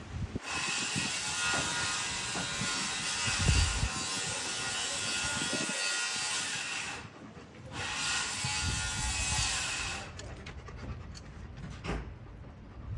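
Power saw cutting in two runs, the first about six and a half seconds long and the second about two seconds, with a short break between them.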